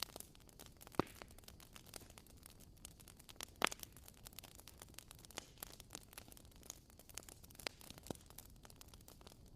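Bonfire crackling: a faint hiss with irregular snaps and pops, and two louder pops about a second in and near four seconds.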